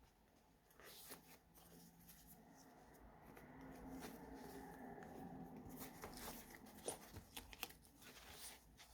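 Faint rustling and soft ticks of paper junk-journal pages being handled and turned, with a few sharper clicks near the end.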